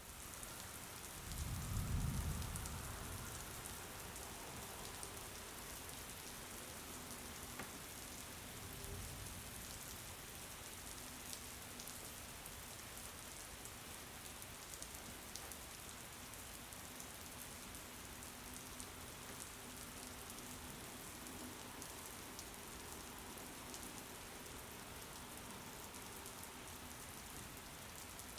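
Steady rain, a constant hiss with individual drops ticking through it. A low rumble swells and fades about two seconds in, the loudest moment, with a weaker one near nine seconds.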